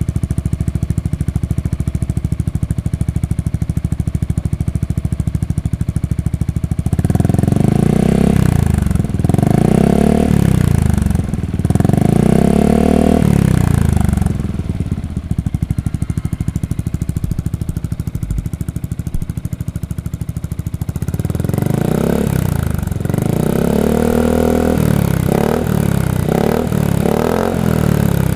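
Yamaha XMAX 250 scooter's single-cylinder engine through a ProSpeed aftermarket exhaust, idling steadily and then revved in three rising-and-falling throttle blips. It drops back to idle, then climbs again near the end with several short, quick blips.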